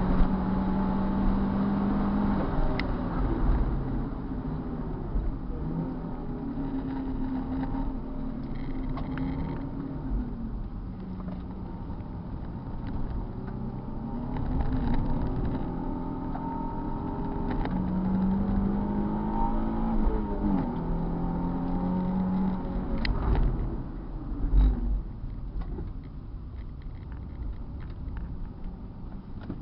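Car engine running hard on a circuit, its pitch holding, then climbing and dropping again several times as it accelerates, shifts and backs off. Two sharp knocks stand out near the end.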